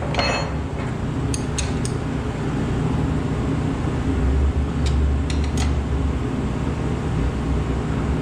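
Wrench working the castle nut on an ATV tie rod end to tighten it, giving a few light metallic clicks, three together about a second and a half in and three more around five seconds, over a steady low hum.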